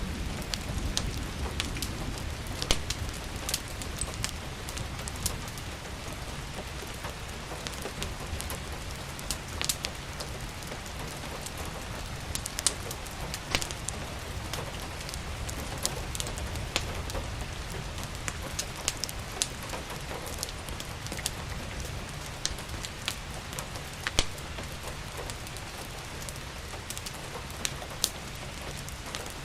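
Steady rain falling, with scattered sharp crackles and pops from a wood fire and a low rumble underneath.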